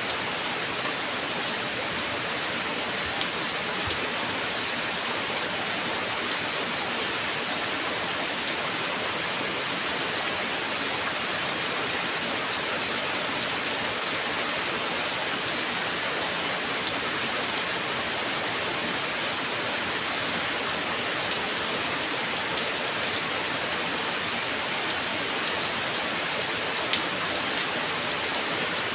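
Heavy rain falling steadily: an even hiss with small drop ticks scattered through it.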